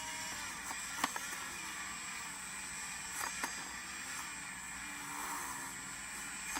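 Dremel rotary tool running steadily while cleaning surface rust off the universal joint's yoke, with a couple of light clicks about a second in and around three seconds in.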